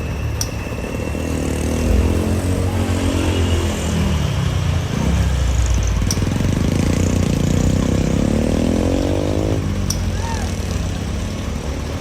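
Truck engine labouring on a steep climb: its note rises, dips briefly, rises again for several seconds and then drops away abruptly a couple of seconds before the end, over a steady low rumble.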